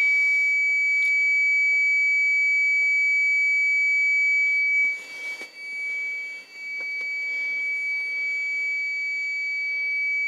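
Dashboard warning buzzer in a truck cab with the ignition on before a cold start: a steady high-pitched tone for about five seconds, a brief break, then the same tone again as a rapid pulsing beep.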